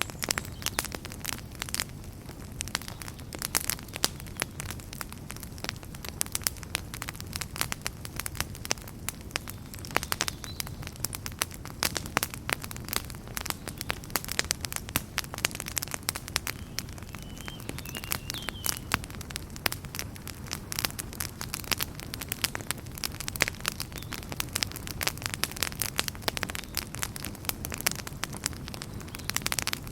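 Wood fire in a fireplace crackling, with many quick irregular pops and snaps over a steady low rumble of the flames.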